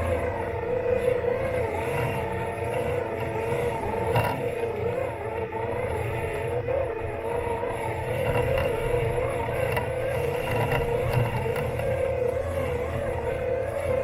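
Robot lawn mower's electric motors heard from a camera taped to the mower body: a steady whine with a slightly wavering pitch over a low rumble as it drives across the lawn. One short tick about four seconds in.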